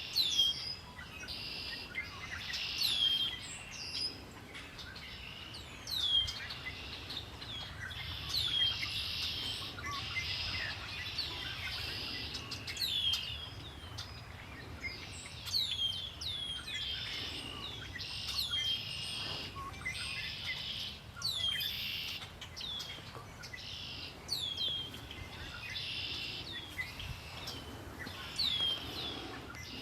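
Several songbirds singing at once: dense chattering song, cut through every couple of seconds by a clear whistle sliding down in pitch, over a steady low background rumble.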